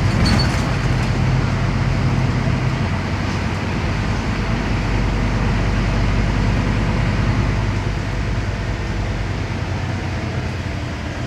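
Scania CN270UB city bus under way, heard on board: its five-cylinder diesel engine running under the hum of tyres and road noise. The strong low engine note drops away about three seconds in, and the overall level eases slightly toward the end.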